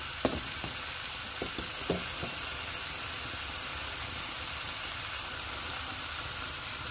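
Marinated gourami fish sizzling steadily as it grills in a hot pan, with a few small pops in the first couple of seconds.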